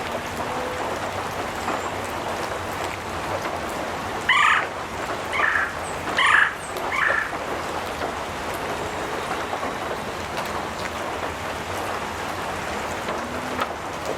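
Steady rain falling on a metal roof. Around the middle, an animal calls loudly four times, about a second apart.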